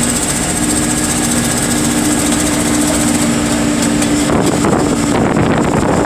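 Engine of heavy scrapyard machinery running steadily with a constant hum. About four seconds in the hum gives way to a rougher, slightly louder noise.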